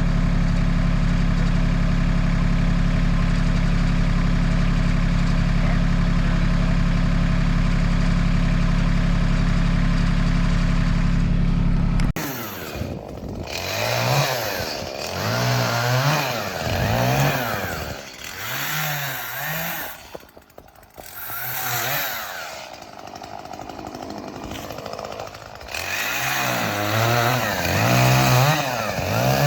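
An engine runs at a steady, unchanging speed for the first twelve seconds or so. Then the sound changes abruptly to a chainsaw revving up and down again and again, as it does while cutting wood.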